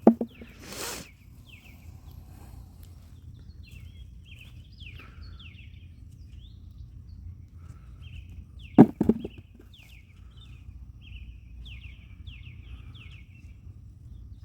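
A small bird chirping over and over in a string of short, quick, falling chirps, over a low outdoor rumble. A hissing rustle comes about a second in, and two loud thumps, one at the start and one near nine seconds in, come from the digging in the garden bed.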